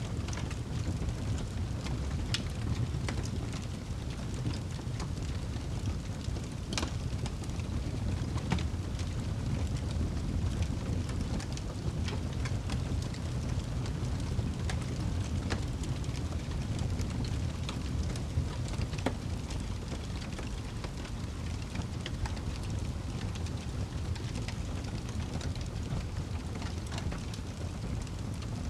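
Wood fire in a fireplace crackling: a steady low rumble of burning with scattered sharp pops and snaps, the loudest about seven seconds in.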